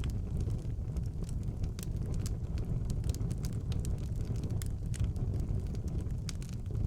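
Wood fire burning in a fireplace: a steady low rumble of flames with frequent small, sharp, irregular crackles.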